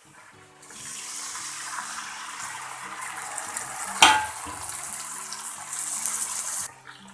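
Tomato going into hot oil with fried onions in a pan, sizzling hard; the sizzle starts under a second in and stops suddenly near the end. A sharp knock about four seconds in, with soft background music underneath.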